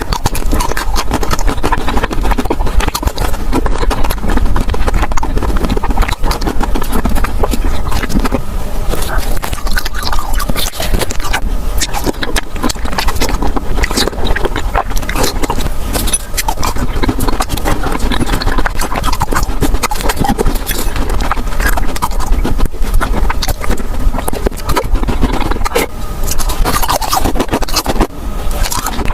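Close-miked eating of frozen ice cream pops: a continuous run of crackly bites, crunches and scrapes with no pauses.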